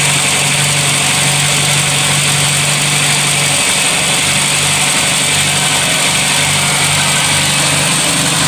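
VW Golf/Polo petrol four-cylinder engine with MP9 fuel injection idling steadily, with its MAP sensor plugged in and the idle no longer fluctuating.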